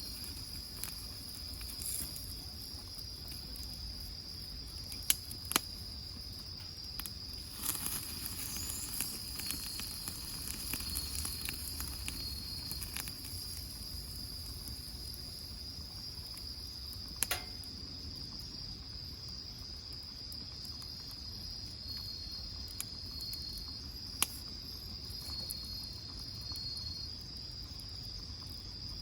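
Insects singing outdoors: a steady high-pitched trill, with a second insect calling in short broken stretches near the start and again in the last third. A few sharp clicks or pops come over it.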